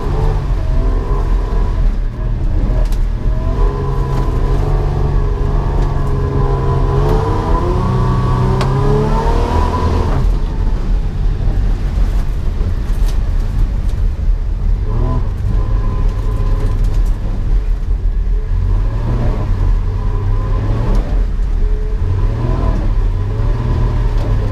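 Holden VS Commodore engine working hard through an autocross run, over a heavy low rumble. Its pitch climbs steadily for a few seconds, drops sharply about ten seconds in, then rises and falls again as the throttle comes and goes.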